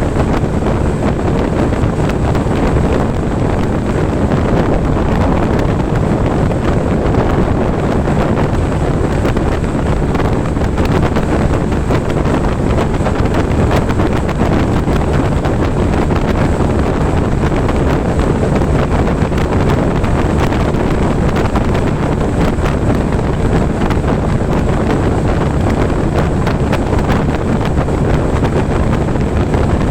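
Honda ADV 150 scooter's single-cylinder engine running steadily at sustained high speed, mostly buried under heavy wind buffeting on the microphone.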